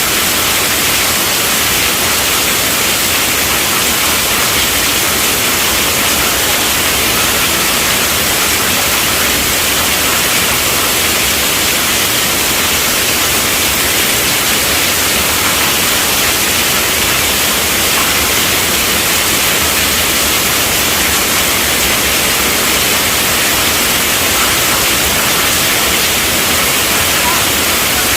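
Heavy rain falling steadily on a tent roof, a dense, even hiss with no let-up.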